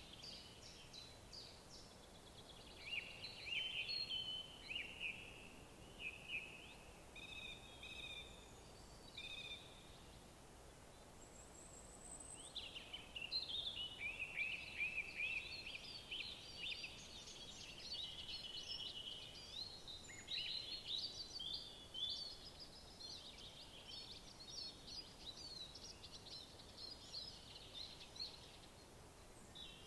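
Songbirds singing in woodland, with chirps and trilled phrases over a faint steady background hiss. The song pauses for a couple of seconds about a third of the way in, then picks up again, busier and near-continuous.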